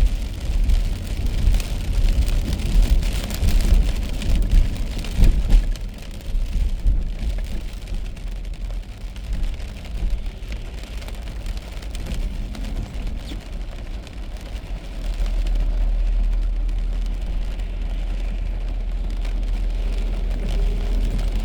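Rain pattering on a moving car with a low road and engine rumble underneath. About two-thirds of the way through, the rumble grows louder and steadier.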